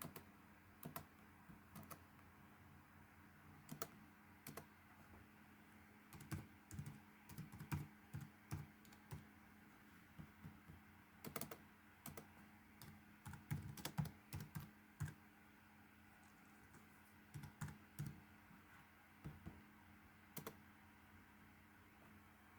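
Faint typing on a computer keyboard: irregular key taps in short clusters with pauses between, over a faint steady hum.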